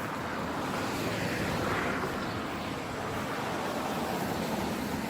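A vehicle passing by: a rushing noise that swells about two seconds in and then eases off a little.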